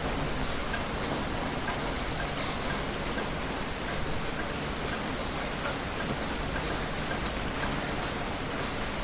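Heavy rain falling steadily, an even hiss with scattered individual drop hits. No thunder is heard.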